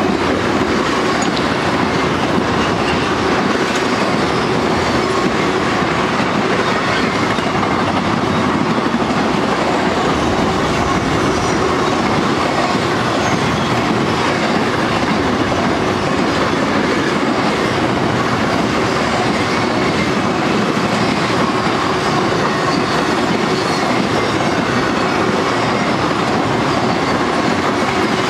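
Freight cars of a long intermodal train carrying highway trailers rolling past at steady speed: a continuous rumble and clatter of steel wheels on the rails.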